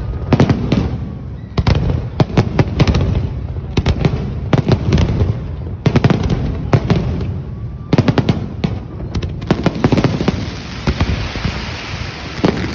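Fireworks display: a rapid, irregular series of bangs and pops, giving way to a dense, continuous crackle from about three-quarters of the way through.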